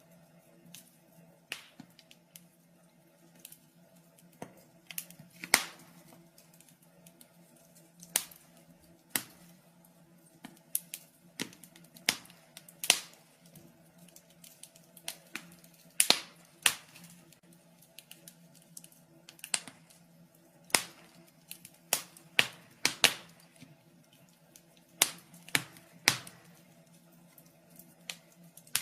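Wood fire crackling in a fireplace: irregular sharp pops and snaps, a few louder ones among many small clicks, over a faint steady low hum.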